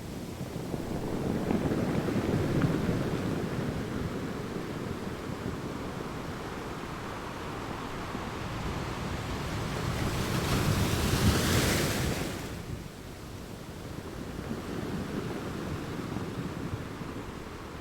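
Ocean waves: a continuous rush of surf that swells and ebbs, with one larger wave building to a loud hissing surge about ten to twelve seconds in, then falling away.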